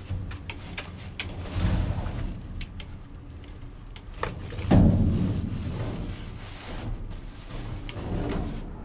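Rummaging and handling of discarded items: scattered clicks and knocks with rustling, and one loud thud with a booming after-ring a little under five seconds in.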